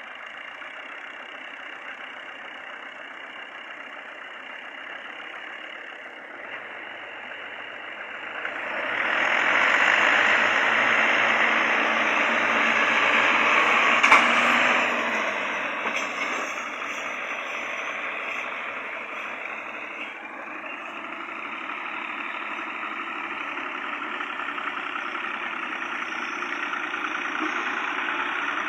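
Tractor engines running while hauling a heavy load. They grow much louder about eight seconds in and stay loud for several seconds, with a sharp knock near the end of that stretch, then ease back to a steady run that builds slightly near the end.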